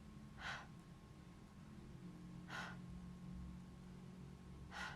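A woman's breathy, voiceless 'h' sound made three times, about two seconds apart: the glottal fricative /h/ demonstrated on its own as a pronunciation model.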